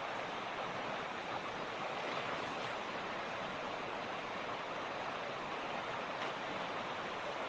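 Mountain creek rushing steadily over rocks, an even, unbroken rush of water.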